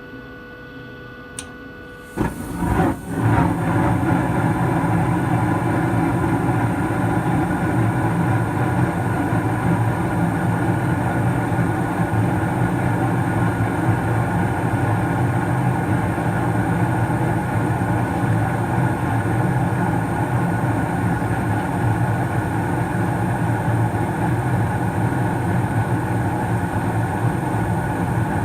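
Carrier Infinity 98 gas furnace starting up: a click, then about two seconds in it comes on suddenly and loudly and settles into a steady rushing hum.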